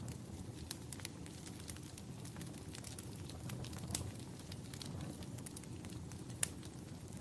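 Wood fire crackling in a fireplace: a steady low rumble with irregular sharp pops and snaps, one louder pop about six seconds in.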